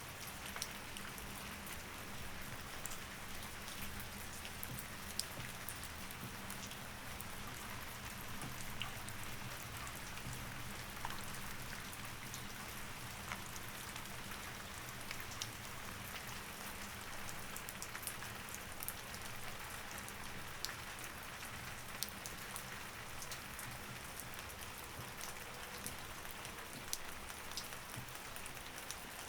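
Steady rain with many small scattered drop ticks, over a faint low steady hum.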